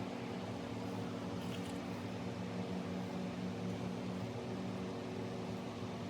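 Steady mechanical hum of a running fan or motor, unchanging throughout, with one faint click about a second and a half in.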